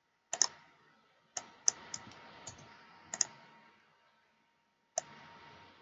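Computer mouse clicking: about eight short, sharp clicks at irregular intervals, some in quick pairs, as cells are selected and moved in a spreadsheet.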